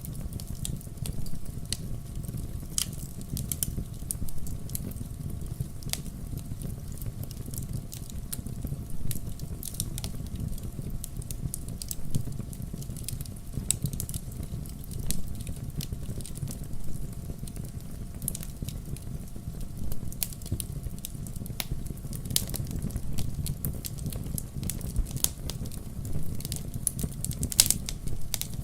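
Wood fire burning in a fireplace: steady low rumble of the flames with frequent irregular sharp crackles and pops.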